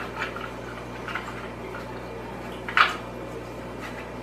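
Soft handling noises as a foam filter pad is worked into a plastic canister-filter media basket, with one sharp plastic click a little under three seconds in.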